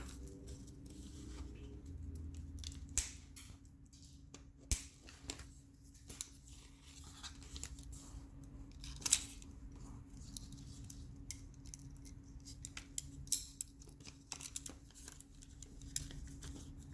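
Plastic zip ties being worked by hand: a few sharp snips as the tie ends are cut, and many small plastic clicks and ticks as the ties are threaded through.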